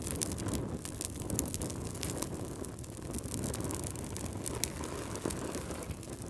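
Fireplace fire crackling: many scattered sharp pops and snaps over a steady low rumble of flames.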